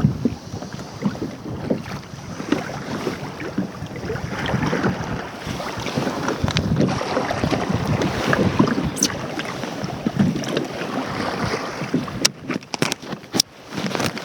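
Choppy sea water slapping and sloshing against a kayak's hull, with wind buffeting the microphone. A quick run of sharp clicks near the end.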